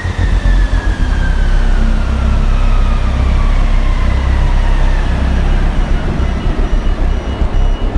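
Big twin Detroit Diesel generator set, each engine supercharged and turbocharged, running with a loud, steady low rumble. A faint whine falls slowly in pitch over the first half.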